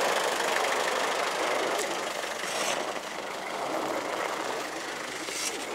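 Off-road 4x4's engine running steadily as the vehicle crawls through an obstacle course, a little quieter in the second half.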